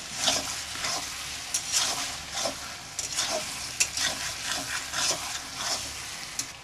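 Mutton and liver frying in a thick spice masala in a metal kadai, sizzling, while a spatula stirs and scrapes through it with irregular strokes against the pan. This is the masala being fried down, with the tomatoes releasing their water.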